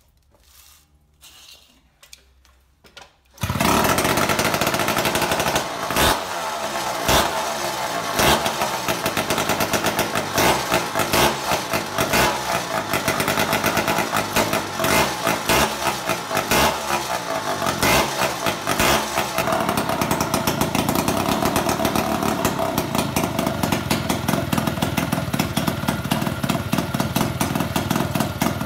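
Kawasaki KD100 single-cylinder two-stroke engine firing up on its first start, primed with a little fuel. It catches suddenly about three and a half seconds in, then runs loud and uneven, with sharp rev blips and pops, before settling into a steadier run in the second half.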